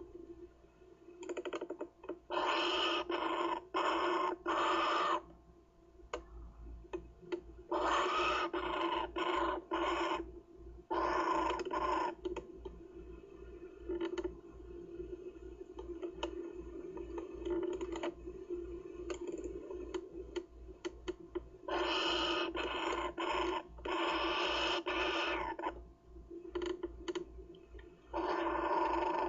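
Kookaburra chick calling in short repeated harsh calls, about two a second, in several runs separated by pauses.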